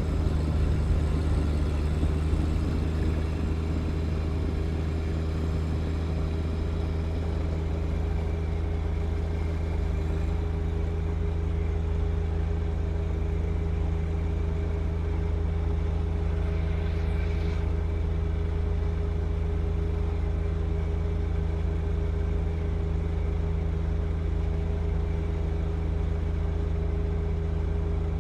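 Compact diesel tractor engine, the John Deere 1025R's three-cylinder diesel, running steadily at constant throttle with no change in speed.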